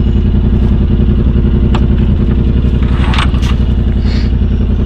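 Side-by-side's engine idling steadily, with a few short clinks and scrapes over it.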